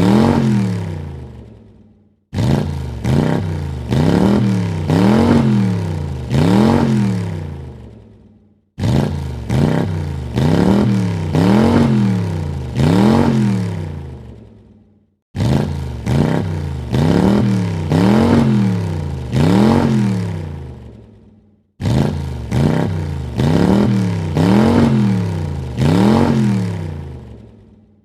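Car engine revved in quick blips, its pitch rising and falling with each one, several blips to a burst. Each burst fades away and the same burst starts again about every six and a half seconds, four times over.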